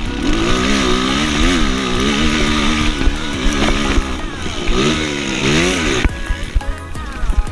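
Motocross motorcycle engine being revved, its pitch rising and falling repeatedly with throttle blips, then cutting off suddenly about six seconds in.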